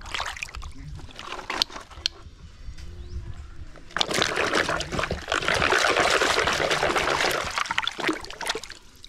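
Water pouring steadily for about four seconds, after a few light clicks and knocks.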